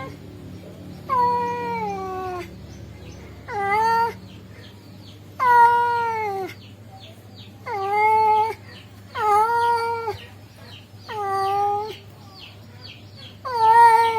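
Male cat calling to a female: about seven drawn-out meows, each up to a second long and a second or two apart, several dropping in pitch at the end.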